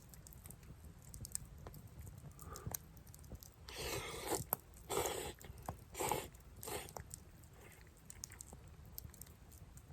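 A person slurping and eating hot champon noodles, with four short, loud slurps between about four and seven seconds in. Faint scattered ticks run underneath.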